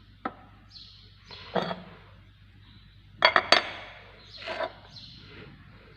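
Metal drum-brake parts, brake shoes and their return springs, clinking and knocking as they are handled, with a quick cluster of sharp clinks a little past halfway.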